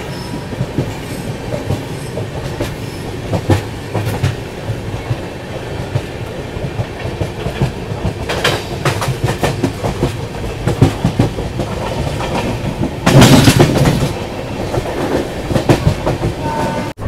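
Moving passenger train: a steady rumble of the coaches with the wheels clacking over rail joints, and a loud burst of clatter lasting about a second, about two-thirds of the way through.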